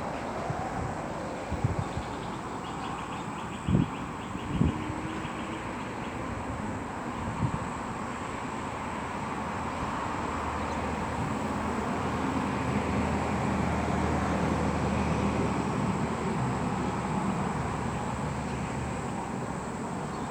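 Outdoor background noise with a few knocks in the first several seconds, then a low rumble of a passing vehicle that swells and fades over about nine seconds.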